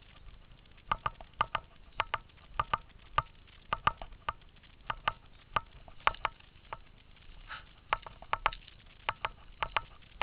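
Paintball markers firing: a long irregular string of sharp pops, sometimes two or three in quick succession, with short gaps between volleys.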